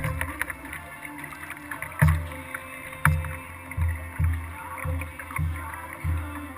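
Kayak being paddled, heard through its hull: a run of low thuds, one every half second or so, starting about two seconds in, with light clicks and water noise over them.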